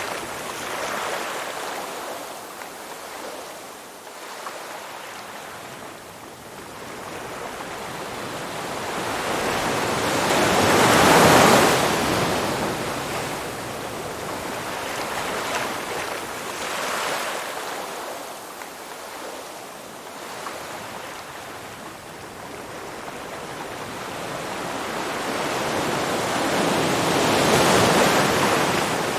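Ocean waves washing onto a shore. Two large swells break, about eleven seconds in and near the end, each rising and falling away again.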